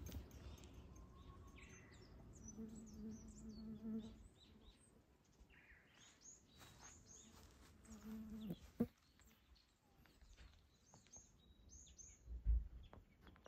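Small birds chirping in the forest: many short, high calls scattered throughout. A dull low thump near the end is the loudest sound.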